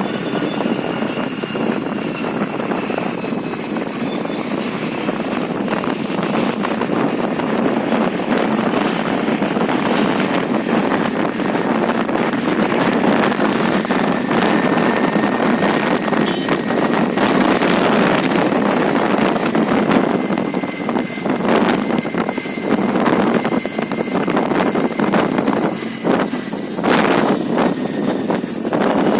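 Honda Dio scooter riding along with its engine running steadily, under a constant rush of wind on the microphone and the odd knock from bumps in the road.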